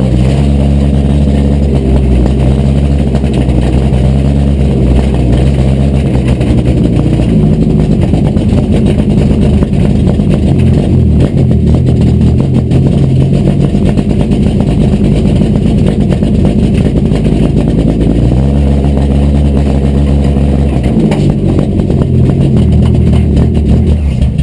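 Four-cylinder engine of an Acura Integra race car running, heard from inside its stripped cabin. The engine holds a steady speed, picks up revs about a third of the way in, drops back later and picks up again near the end.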